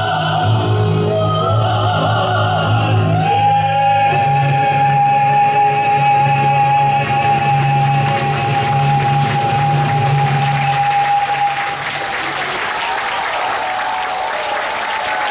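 Closing bars of a male–female vocal duet with accompaniment, ending on a long high sustained note held for about eight seconds. Applause breaks out as the note ends, near the end.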